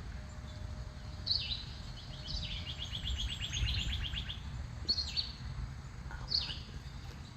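A songbird singing repeated phrases, about four times: each is a high whistle sliding down, followed by a fast trill. A steady low rumble runs underneath.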